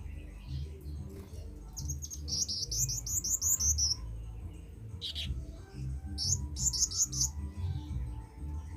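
Kemade bird singing: a rapid run of short, rising, high chirps about two seconds in, a single falling note, then a second quick run of chirps, over a steady low rumble.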